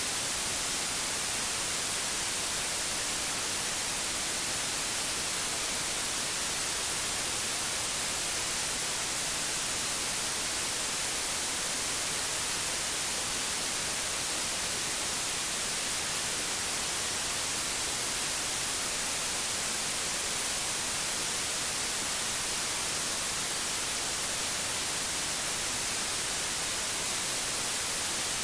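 Steady white noise: an even hiss, brightest in the treble, that holds unchanged throughout.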